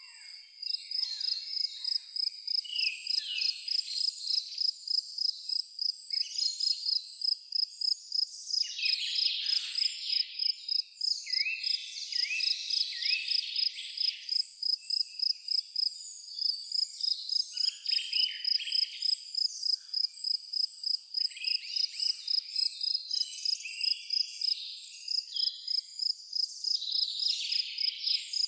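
A cricket chirping steadily on one high note, about three and a half chirps a second, with several birds calling over it: short downward-sliding whistles and a run of repeated notes.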